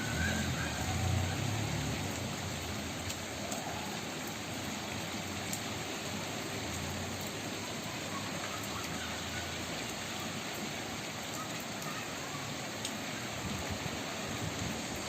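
Steady rain falling: an even hiss with scattered sharp drop ticks, and a low rumble in the first couple of seconds.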